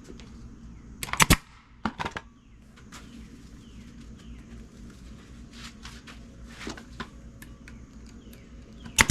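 Staple gun firing staples to fix upholstery to a boat seat: a quick pair of sharp shots about a second in, another shortly after, and one more near the end.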